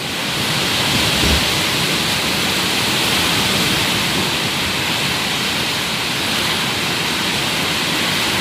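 Heavy storm downpour: a loud, steady rush of pouring rain driven by strong wind.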